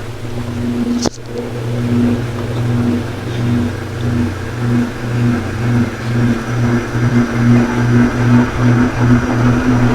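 52-inch ceiling fan running: its motor hums with a regular pulsing beat that quickens while a rush of air grows louder as the blades come up to speed. A sharp click about a second in.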